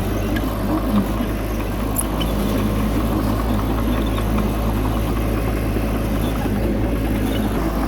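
Bulldozer's diesel engine running steadily with a low, even hum, and a faint metallic tick about two seconds in.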